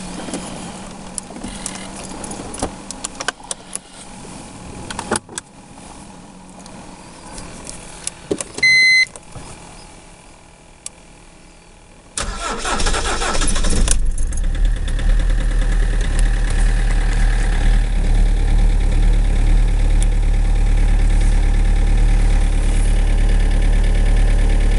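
Scattered clicks and knocks and one short electronic beep, then about twelve seconds in a BMW 320d 136 ps four-cylinder turbodiesel cranks for a second or two, catches and settles into a steady idle. It is a cold start after five days standing.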